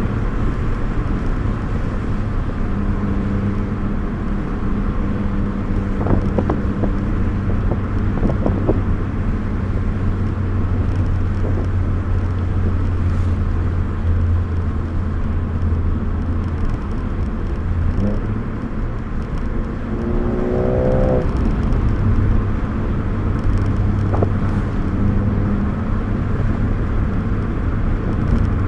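Car engine and tyre noise heard from inside the cabin while driving, with a steady engine drone. Around two-thirds of the way through, the drone drops away and a brief rising rev is heard before it settles back.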